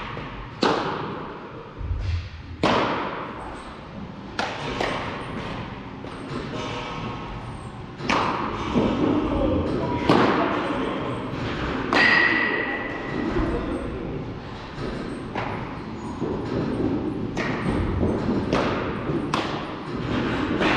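Baseball practice: a ball is struck or caught with a sharp crack about every two seconds, around ten times, some strikes ringing briefly.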